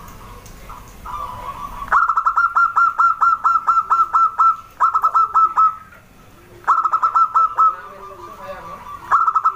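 Zebra dove (perkutut) calling: bursts of rapid staccato notes, about five a second, with the first burst longest. Fainter arched lower notes fall between the bursts.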